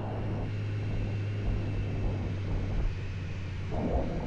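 Heavy motorcycle engine running at a steady low note under wind and road noise while riding.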